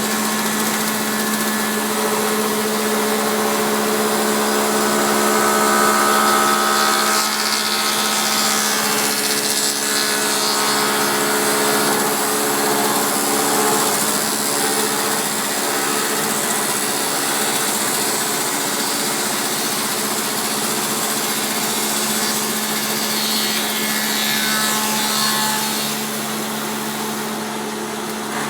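Taiga OS electric log-rounding machine milling a log: a steady motor hum under continuous wood-cutting noise. It eases off a little near the end.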